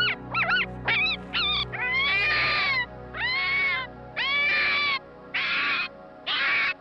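Animal calls: a quick run of short calls that bend sharply in pitch, then five longer, evenly spaced calls, each under a second, over a steady music bed.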